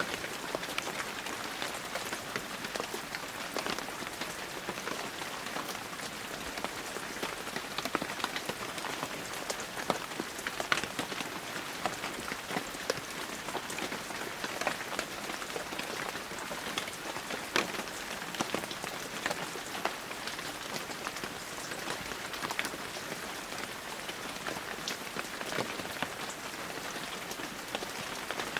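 Heavy rain falling steadily, a dense hiss with many close, sharp drop impacts scattered through it.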